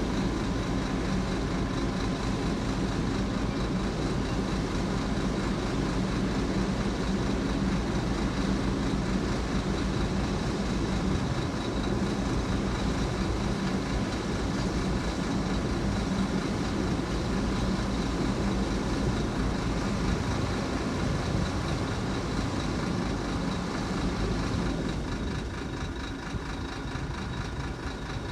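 Heavy diesel engine of earthmoving machinery running steadily under load, easing off a little near the end.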